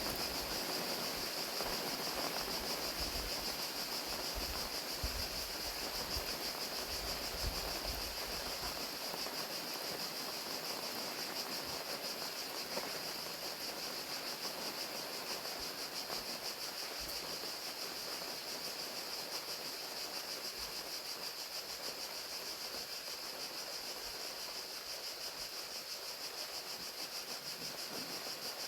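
Crickets chirping in a steady high-pitched trill, with rain falling as a constant hiss underneath.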